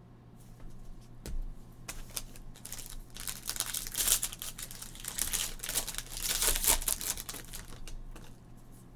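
Plastic wrapper of a trading-card pack being torn open and crinkled, with a few light clicks and rustles first and dense crackling in the middle.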